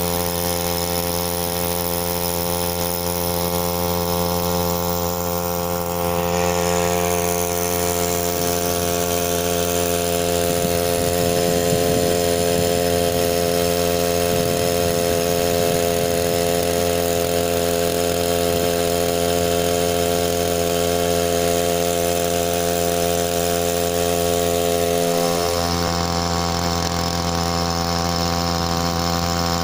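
Small air-cooled two-stroke outboard motor (Matsumoto MOB-830, 3 hp) running steadily at a constant speed, with a brief wobble in pitch near the end.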